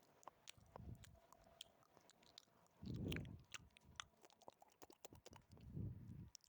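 Close-miked ASMR mouth sounds: a run of small wet clicks and smacks. Three soft low puffs come about a second in, around three seconds in (the loudest) and near the end.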